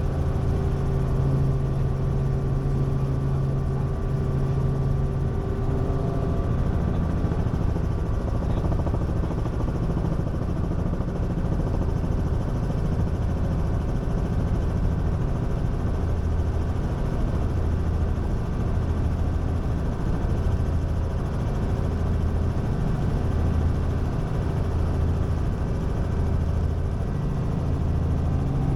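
Robinson R44 Raven I helicopter's engine and rotor running steadily in flight on approach, a constant drone with a low hum that swells and fades about every second and a half.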